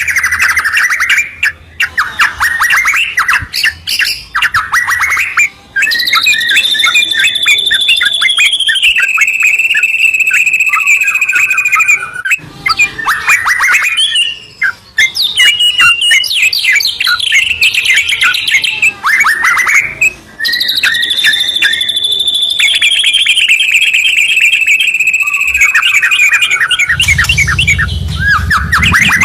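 White-rumped shama and yellow-vented bulbul singing loudly in a near-continuous duet. Long falling whistles alternate with rapid chattering and trilled phrases. A low rumble joins near the end.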